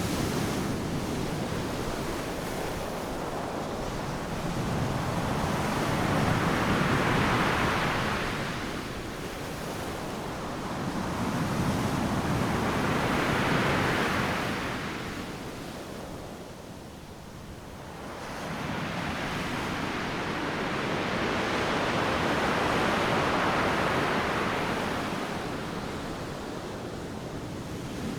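Ocean waves crashing on a beach, a continuous rush of surf that swells and eases: three waves build to a peak, with a quieter lull between the second and third.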